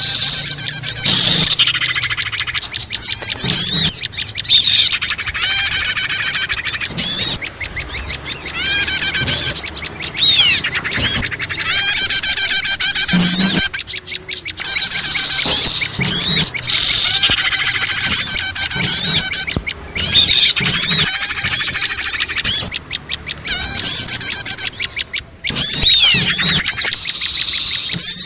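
Dense, overlapping chirping and fast trilling of many small songbirds, a mixed bird-lure track for calling in small birds, played nearly without a break.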